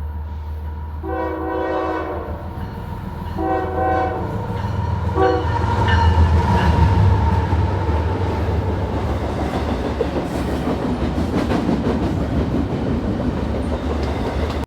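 Freight train diesel locomotive's multi-chime air horn sounding two longer blasts and a short one. The locomotive then passes close by with a loud engine rumble, followed by steady wheel and rail noise from the passing cars.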